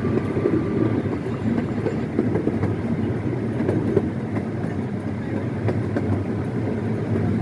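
Small scenic-railway ride train running along its track, heard from on board: a steady low rumble with a few faint clicks from the wheels.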